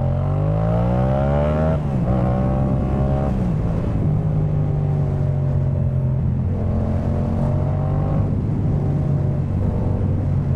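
Yamaha MT-07's parallel-twin engine through a Jeskap K4 full exhaust, revving up under acceleration for about two seconds, then dropping in pitch at a gear change and running at fairly steady revs with small throttle changes.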